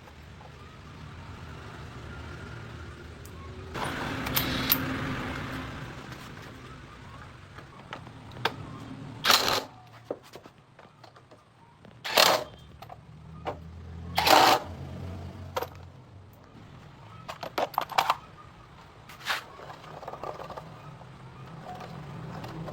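Repair work on a motorcycle tyre and inner tube: several sharp knocks and clicks of hand work, over a steady low rumble.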